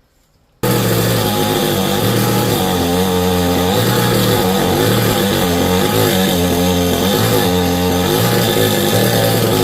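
Chainsaw running under load while cutting teak wood, starting abruptly about half a second in, its engine pitch dropping and recovering every second or so as the chain bites.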